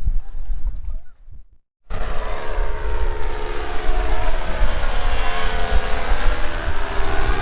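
Small propeller engine of a powered paraglider running in flight, a steady drone whose pitch slowly sweeps up and down as it passes. It starts after a brief moment of silence about two seconds in; before that, wind on the microphone.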